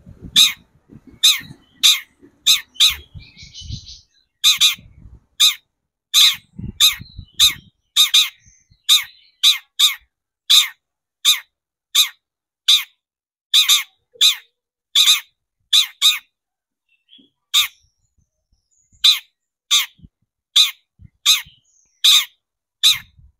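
Long-tailed shrike (cendet) giving short, harsh, rasping calls over and over, roughly two a second, with a pause of about two seconds after about 16 s.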